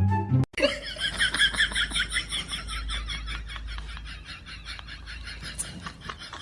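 Rapid high-pitched laughter, a quick string of giggles at about five a second that slowly trails off, coming in right after a brief bit of music cuts off.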